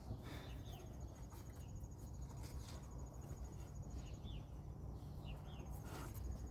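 Quiet outdoor ambience: an insect's fast, high-pitched pulsing trill that pauses now and then, a few short bird chirps, and a steady low rumble, with occasional faint knocks.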